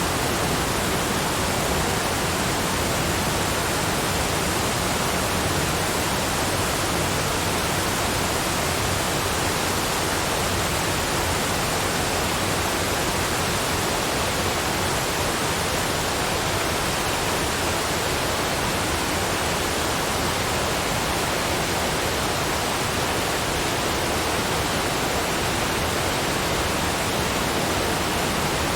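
Waterfall: a steady, unchanging rush of falling water, spread evenly from low to high pitches like white noise.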